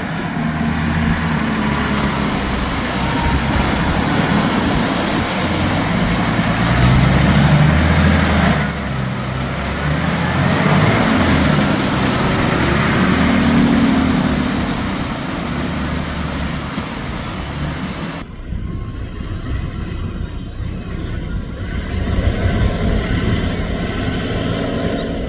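Heavy diesel tractor and truck engines working hard in the mud, their revs rising and falling. About eighteen seconds in the sound changes abruptly to a lower, steadier engine run.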